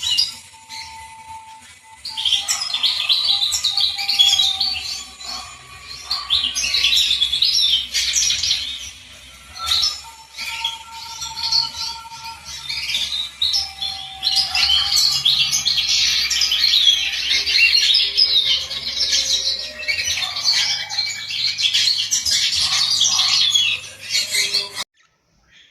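Many small birds chirping and chattering over one another in a dense, continuous chorus, with a few quieter lulls; it cuts off suddenly near the end.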